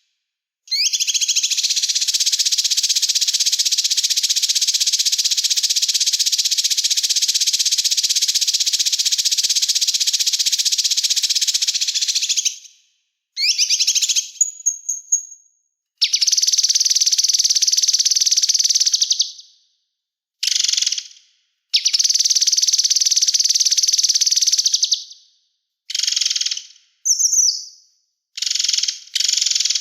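Small songbird singing a very rapid, high-pitched trill, one unbroken stretch of about twelve seconds, then shorter trilled bursts and a few quick whistled notes separated by brief pauses.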